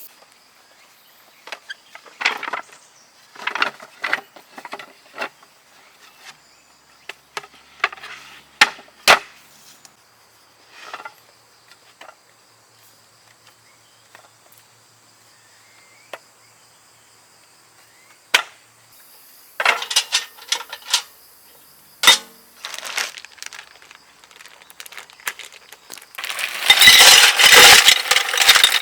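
Scattered sharp knocks and clicks, some single and some in quick clusters, over a faint steady chirring of crickets; near the end a dense, loud rustling clatter takes over.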